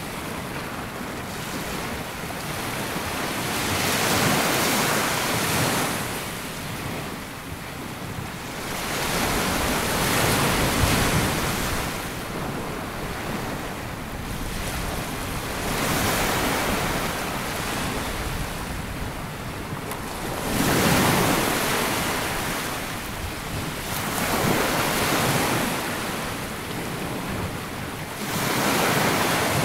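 Small waves breaking and washing up a sandy beach, a swell of surf every three to five seconds with a steady hiss between, and some wind on the microphone.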